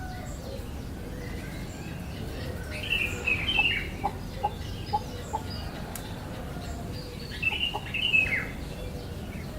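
A bird calling: two quick bursts of chirpy notes about four seconds apart, with a few short lower notes in between, over a steady low background hum.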